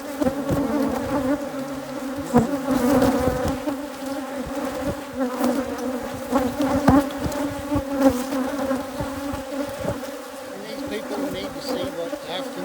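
Loud, dense buzzing of a disturbed hybrid Africanized honey bee colony: many bees flying close around the opened hive in a steady hum, with scattered short knocks. The colony is agitated and defensive at being opened.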